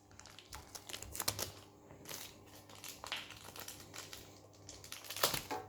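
Plastic toy packaging rustling and crinkling, with scattered small clicks as it is handled.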